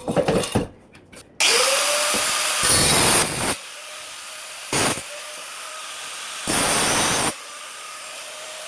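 Handheld electric power tool running in repeated trigger bursts: its motor spins up sharply a second and a half in, runs loud for about two seconds, then drops to a lower run broken by shorter loud bursts. A few light clattering knocks come just before the first run.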